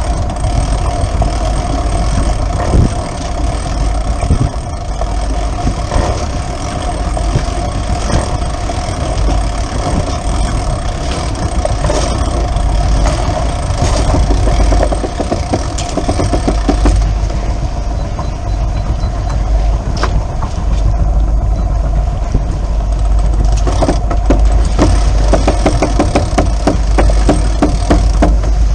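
A sailboat's inboard engine running steadily under way, a constant drone with a steady hum.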